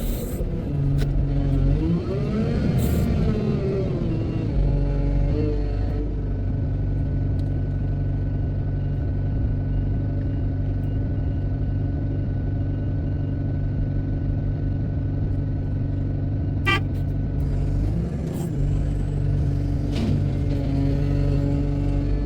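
Wheel loader's diesel engine running steadily under load, revving up and back down about two seconds in, easing off and picking up again near the end. A short sharp knock is heard about three-quarters of the way through.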